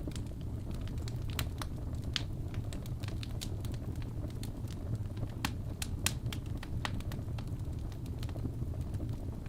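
Wood fire crackling in a fireplace: irregular sharp pops and snaps over a steady low rumble from the flames.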